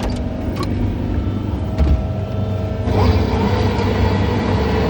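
John Deere 317 skid steer engine running steadily, with a few sharp clicks in the first two seconds. About three seconds in, the engine note gets louder and fuller.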